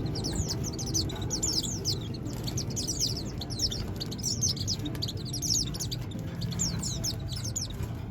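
Small aviary birds chirping rapidly and continuously, many short downward-sliding high chirps overlapping, a newly put-together pair calling back and forth and squabbling. A steady low rumble runs underneath.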